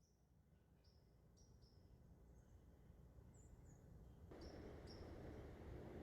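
Sparrows chirping faintly: many short, high, slightly falling chirps over low background noise that grows louder about four seconds in.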